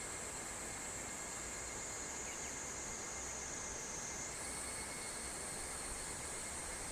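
Summer cicadas in a continuous high-pitched chorus that drops a little in pitch and then steps back up about four seconds in, over a faint low steady rush.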